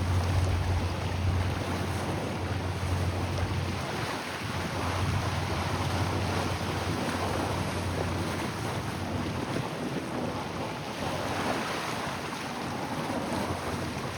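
Wind buffeting the microphone over moving water, an even rushing noise, with a low steady hum that fades out about halfway through.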